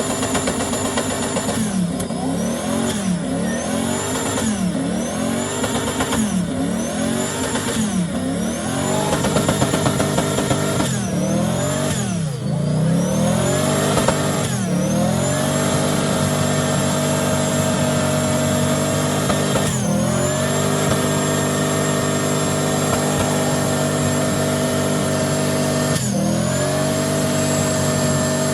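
A truck engine revved hard, its pitch dropping and climbing back several times, then held flat at high revs with two short dips. A high whine rises and falls with the engine.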